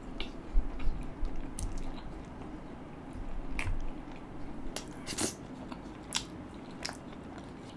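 A man chewing a mouthful of butter chicken close to the microphone, with sharp mouth smacks and clicks about once a second.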